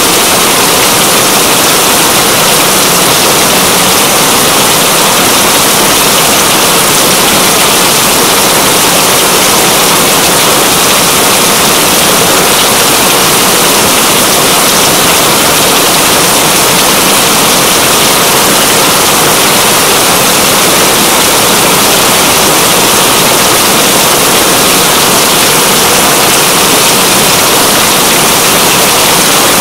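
Steady, dense rain falling, a loud even hiss with no let-up.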